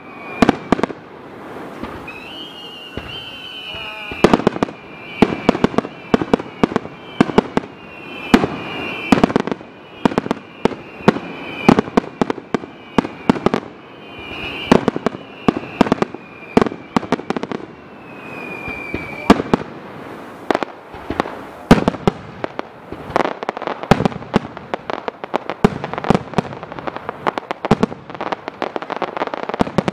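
Aerial fireworks bursting in a rapid barrage, a starmine-style volley of sharp bangs and crackles that comes thicker and faster over the second half. High whistling tones sound over the bangs through the first two-thirds.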